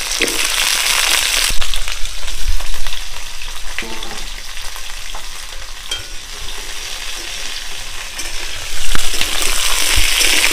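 Raw mango pieces, freshly washed, sizzling in hot mustard oil in a kadai, with the scrape and clack of a stirring spoon. The sizzling swells louder about a second and a half in and again near the end.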